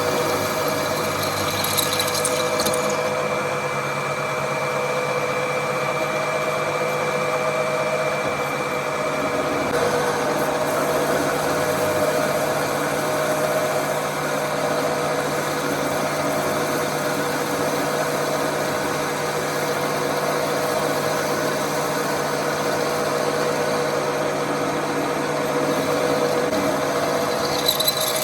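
Workshop machine running steadily, a constant hum with a high whine over it that stops about ten seconds in. A few short clatters come near the end.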